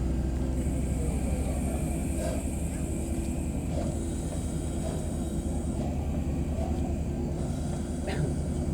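A rail vehicle running steadily, a low rumble with a high hiss above it.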